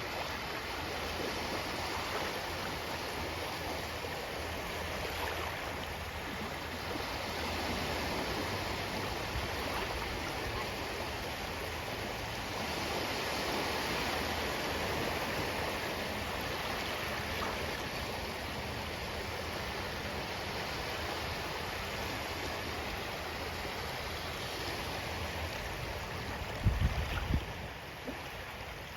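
Ocean waves washing ashore, a steady rush that swells and eases every few seconds. Near the end, a brief loud low rumble cuts in for about a second.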